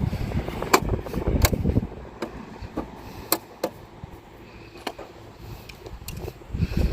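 Scattered light clicks and knocks, with wind buffeting the microphone as a low rumble in the first two seconds and again near the end.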